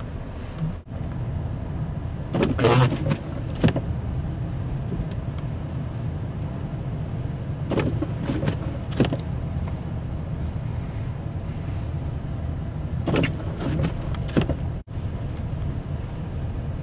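Car driving slowly on snowy roads, heard from inside the cabin: a steady low engine and road rumble, with a brief louder noise recurring about every five seconds.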